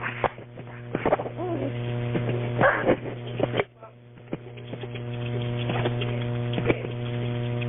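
Steady electrical hum on an open telephone line, with a few faint, muffled sounds in the first three seconds. The line clicks and drops out briefly about three and a half seconds in, then the hum returns.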